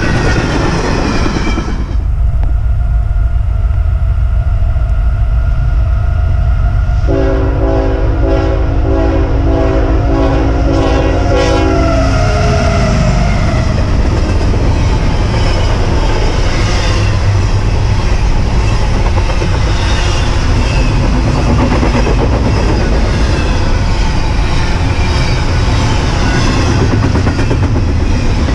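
A train rolls past on the track, then the scene changes about two seconds in to another train approaching with a low rumble. That train's multi-note horn sounds in a string of blasts for about five seconds, and then the train rushes past close by with steel wheels clattering over the rails.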